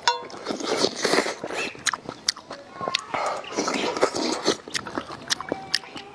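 A person eating: irregular bites and wet chewing, with many sharp clicks throughout.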